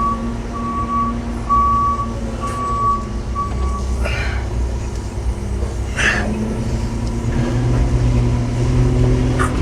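Telehandler diesel engine running, with a reversing alarm beeping at one steady pitch in uneven pulses for the first four seconds or so. Two brief noises about four and six seconds in, and the engine note rises near the end.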